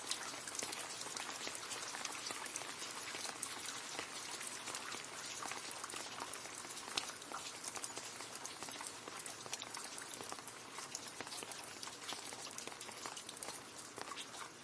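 Steady rain falling into a puddle, a dense patter of drops splashing on the water with many small individual plinks.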